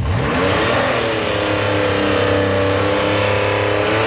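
A drag-racing car's engine revs up sharply over about a second, then holds at high rpm under a loud rushing noise.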